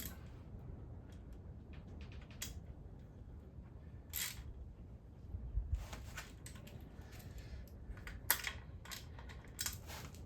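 Scattered light metallic clicks and knocks of hand tools and parts being handled while stripping an engine, coming irregularly a second or two apart over a low hum.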